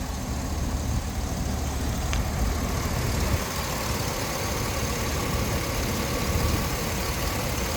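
Supercharged 6.0-litre V8 of a 2004 Hummer H2 idling steadily.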